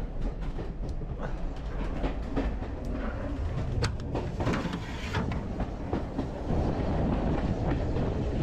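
Steam-hauled heritage passenger train running along the line, heard from a carriage: a steady rumble with the wheels clicking over the rail joints. It grows louder about two-thirds of the way through.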